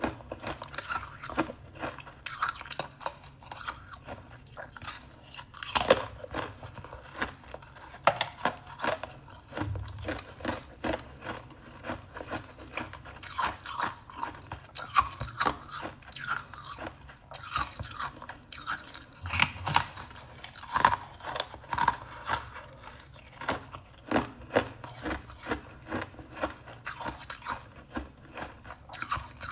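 A person biting and chewing crisp, frost-covered tea crackers: a steady run of irregular crunches and crackles, with a few louder bites about six and twenty seconds in.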